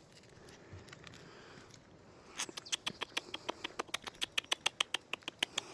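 A puppy's claws clicking on a hard floor as it trots, a quick even run of taps about seven or eight a second that starts about two and a half seconds in.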